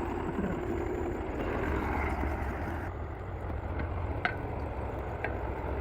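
Tractor engine running steadily as it drives a wheat thresher, a low drone with a few faint ticks.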